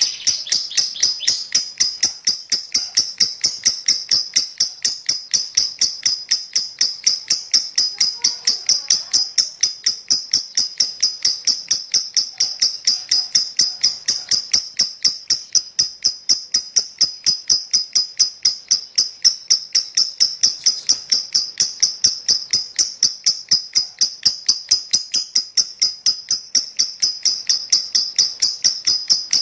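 Lovebird giving its long 'ngekek' chatter: an unbroken run of sharp, high chirps repeated about three times a second without a pause.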